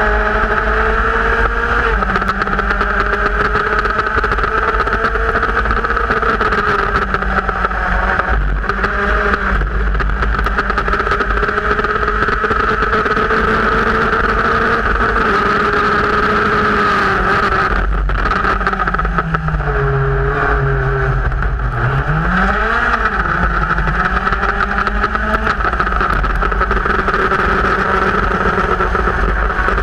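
Formula race car engine at racing speed, heard onboard over a constant rush of wind. The engine note holds high, drops about two-thirds of the way through as the car slows for a corner, then climbs sharply again as it accelerates away.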